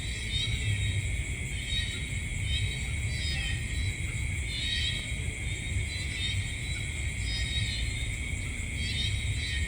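Night chorus of calling animals: a steady high trilling with clusters of short chirps about once a second, over a low rumble.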